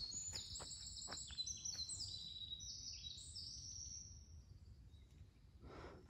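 Forest songbirds singing: quick series of high, thin notes that thin out about four seconds in.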